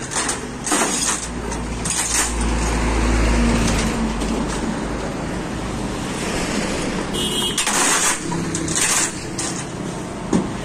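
Truck engine running, its low rumble swelling a couple of seconds in and easing again, with scattered metallic clinks and a short hiss near the end.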